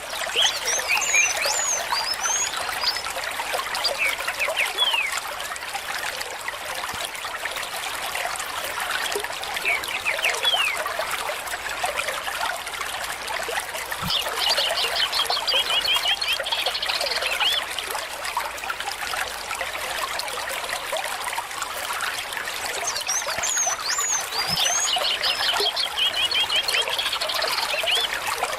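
A small stream trickling and babbling steadily. Birds call over it, with short high chirps and twice a rapid trill, about halfway through and near the end.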